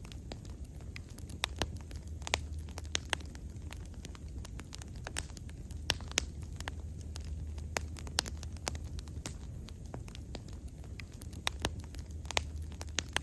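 Wood fire burning, with sharp irregular crackles and pops over a steady low rumble of the flames.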